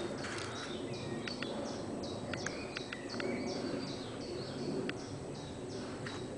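Birds chirping in many short, quick notes over a steady outdoor background noise, with a few sharp clicks.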